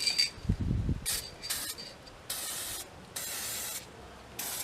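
Aerosol spray-paint can sprayed in a series of short hissing bursts, some brief and some about half a second long, with short pauses between. A brief low rumble of wind on the microphone comes about half a second in.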